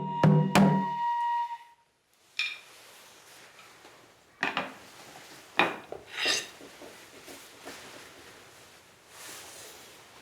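Music with struck, ringing tones dies away in the first two seconds. After that come a few separate sharp clinks and scrapes of objects being handled, about four of them spread over the next four seconds.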